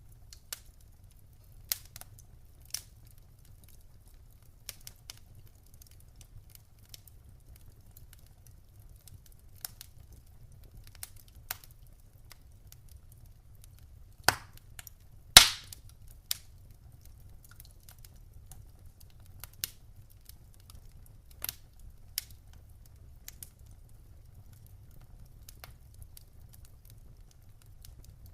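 Wood fire in a fireplace crackling: scattered sharp snaps and pops, with two louder pops about fourteen and fifteen seconds in, over a low steady background noise.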